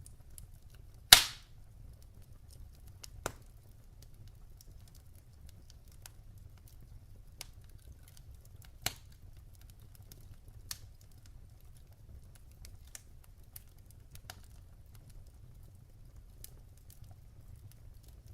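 Log fire crackling in a fireplace: one loud sharp pop about a second in, a few smaller pops and scattered light ticks, over a low steady rumble of the burning.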